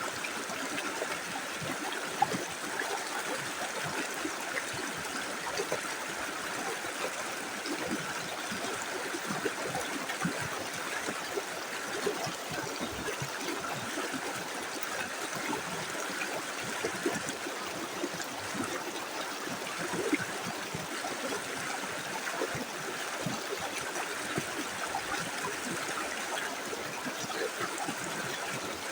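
Small river flowing steadily, an even rush of running water with many small splashes and gurgles scattered through it.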